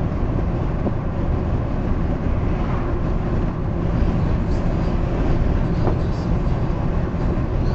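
Steady road and engine noise inside a moving car at highway speed, with tyre rumble.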